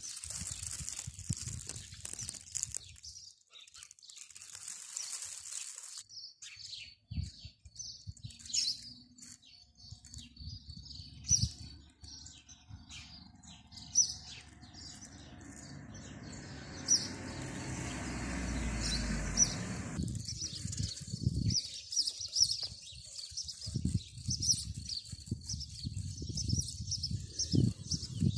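Small birds chirping over and over in short high notes. A low rumble swells in the middle and cuts off suddenly about twenty seconds in.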